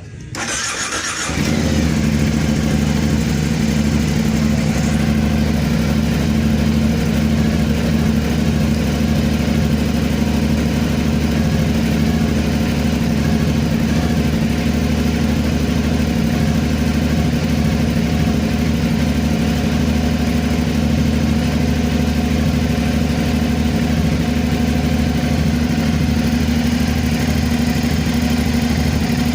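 2018 Aprilia Dorsoduro 900's V-twin engine starting about a second in, then idling steadily.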